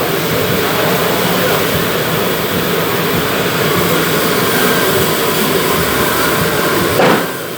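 A woodworking machine running steadily with a dense whirring noise and a low hum. About seven seconds in there is a short, sharper burst, and then the sound drops away.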